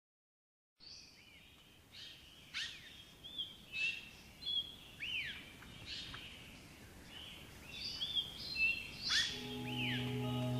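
Birds chirping: a string of short, sharp chirps with quick sweeping pitch, some falling, some rising, several a second apart. About nine seconds in, soft music with long held low notes fades in under them.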